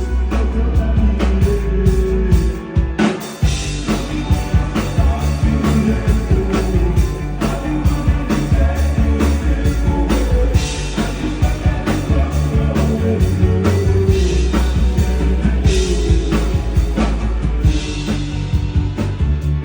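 Live rock band playing a song: drums keeping a steady beat under bass and electric guitar, with a brief break in the bass about three seconds in.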